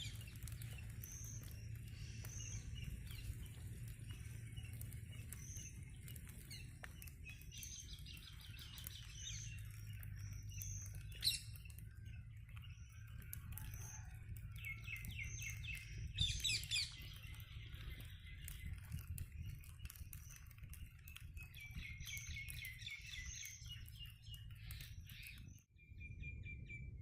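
Birds chirping and singing: one bird repeats a short high note about once a second, while others break in with rapid trilling phrases several times, over a low steady background hum. The sound drops out abruptly for a moment near the end.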